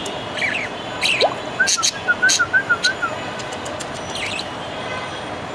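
Pet budgerigar chirping in short rising calls. A warbling, wavering whistled phrase runs through the middle, part of the whistle the budgie is copying.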